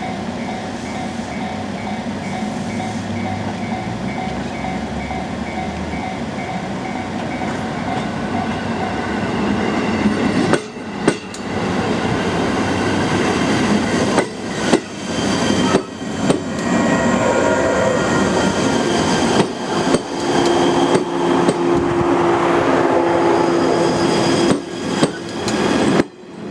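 JR 117 series electric train running past on the rails, getting louder from about ten seconds in, with wheel and rail noise and a steady motor hum.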